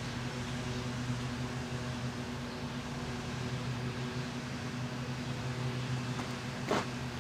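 Proctor-Silex microwave ovens running with a steady electrical hum, and one brief sharp crackle near the end.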